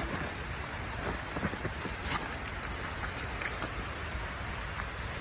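Waterfall rushing: a steady, dense hiss like heavy rain, with a few faint clicks over it.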